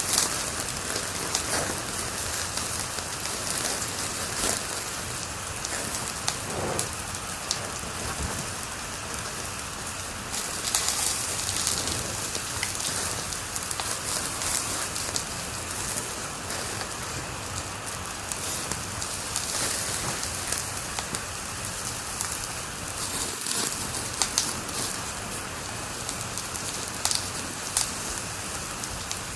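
Wood fire crackling in a fireplace: a steady hiss with many sharp pops and snaps scattered throughout.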